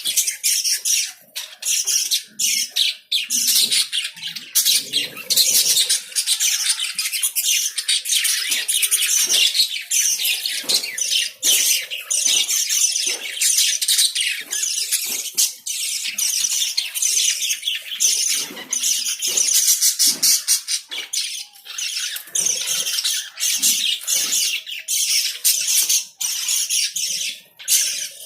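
A flock of pet lovebirds chattering: a continuous, dense run of sharp, high chirps and squawks from many birds at once.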